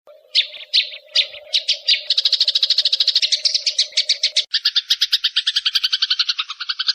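Eurasian tree sparrows (burung gereja) calling. A few separate sharp chirps quicken into a fast, continuous chattering rattle, the rapid-fire 'shooting' call of sparrows fighting. A faint low hum underneath stops suddenly about halfway through.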